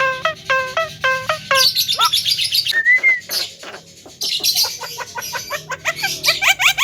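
Javan myna (jalak kebo) calling. It gives a run of evenly repeated pitched notes, then high scratchy chattering, one rising-and-falling whistle about three seconds in, and quick rising sweeps near the end.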